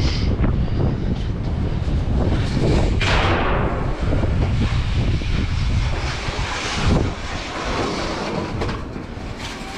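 Wind buffeting the microphone with a steady low rumble. About three seconds in, a louder rushing noise comes up and fades over a second or so.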